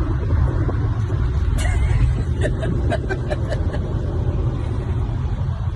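Steady low rumble like road and engine noise inside a moving vehicle, with a few faint short clicks or squeaks about two to three seconds in.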